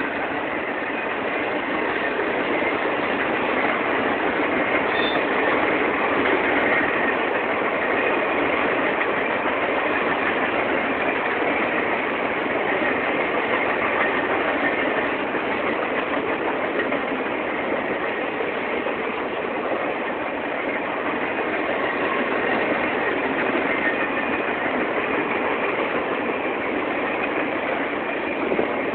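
Norfolk Southern Triple Crown RoadRailer freight train rolling past: a steady, even noise of wheels running on the rails that neither builds nor fades.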